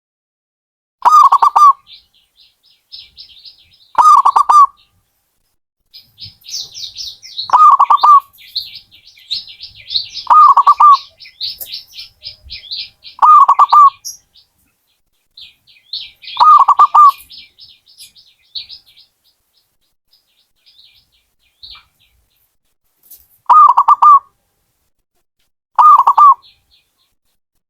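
Zebra dove (perkutut) cooing: short phrases repeated about every three seconds, with a pause of several seconds before the last three. Fainter, rapid high twittering of other small birds runs underneath during the first half.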